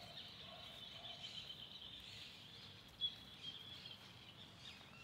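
Faint birdsong: small birds twittering steadily in the park trees, with one sharper chirp about three seconds in.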